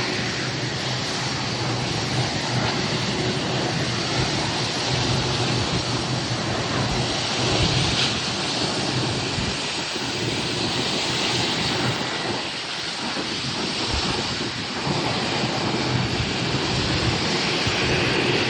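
Jet aircraft engines, heard as a loud, steady rushing noise with a low hum underneath.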